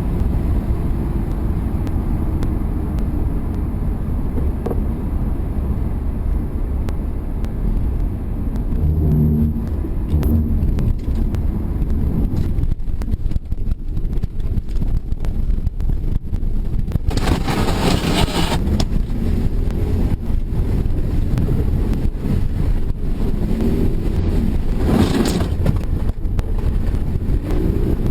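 Car driving sound: a steady low rumble of engine and road noise. A louder rushing noise lasts about a second and a half some two-thirds of the way in, and a shorter one comes a few seconds before the end.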